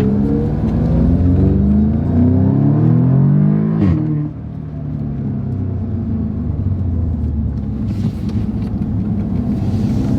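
Audi S3's turbocharged four-cylinder engine accelerating hard, its pitch rising for about four seconds. Then comes a sharp crack as the dual-clutch gearbox shifts up, the revs drop, and the engine runs on steadily and more quietly.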